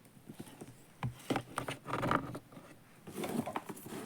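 Handling noise while a small plastic robot vacuum is unboxed: a scattered run of clicks, knocks and short scrapes from plastic parts and packaging.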